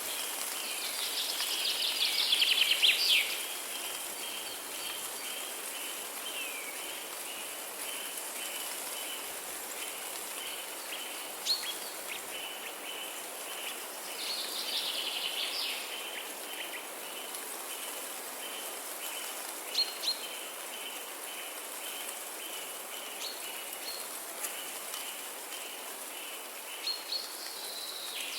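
Nature ambience of songbirds: a loud warbling song phrase about two seconds in and another midway, with single short chirps in between. Underneath runs a steady hiss like light rain or trickling water, and a continuous high, rapid pulsing chirr.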